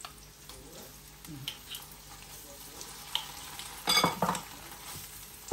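Red pesto, garlic and onion frying in hot oil in a non-stick pan: a steady, faint sizzle. About four seconds in comes a quick run of knocks, the wooden spatula against the pan.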